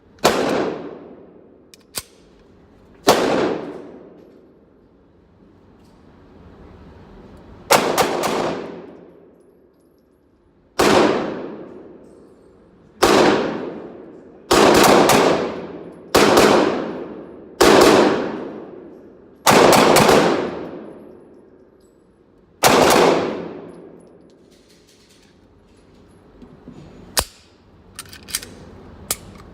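About ten single shots from a 9mm firearm, fired slowly at uneven intervals of a couple of seconds, each with a long echoing decay. A few small sharp clicks follow near the end.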